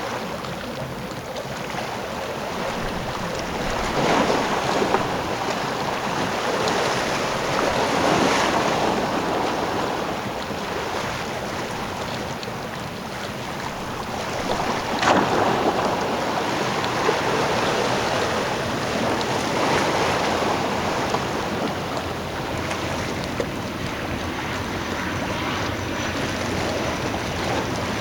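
Wind buffeting the microphone over sea water and the running noise of a Boeing Jetfoil hydrofoil ferry, swelling every few seconds. A faint steady high whine comes in near the end.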